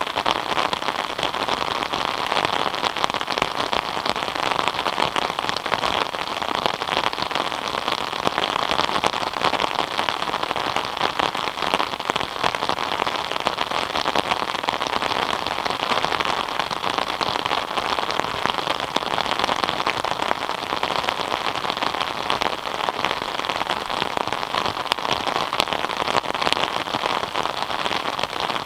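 Steady rain falling, a dense even patter of drops on surfaces that keeps on without change.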